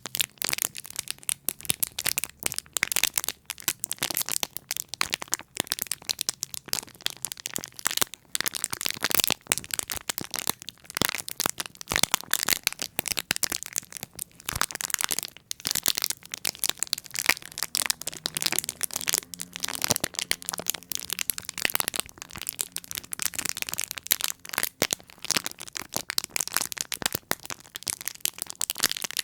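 Close-miked crackling and crinkling: a dense, irregular run of sharp little clicks and crackles with no pause.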